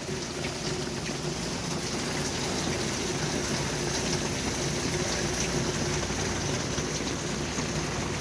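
Steady rain falling and pattering on old tin window covers, an even unbroken hiss of drops.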